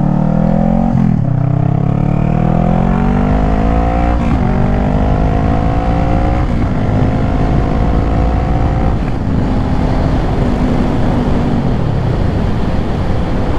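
Honda CBR500R parallel-twin engine accelerating through the gears: the engine note climbs and drops back at each upshift, four shifts in all, then settles to a steady cruise. Heavy wind rush on the rider's microphone underneath.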